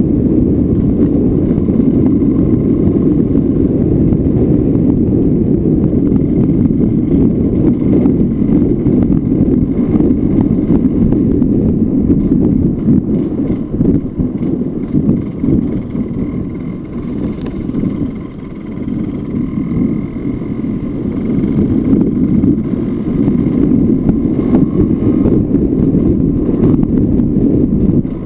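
Yamaha Lanza two-stroke dual-sport motorcycle ridden along a rocky forest road, its engine running under steady throttle with wind noise on the microphone. The engine eases off about halfway through, dropping in loudness for a few seconds, then picks up again.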